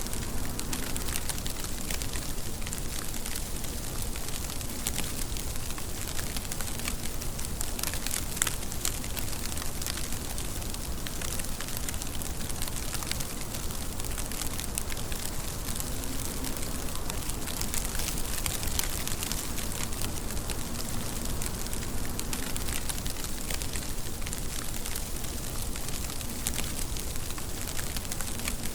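Steady rain falling: a continuous hiss with many sharp drops ticking on a surface.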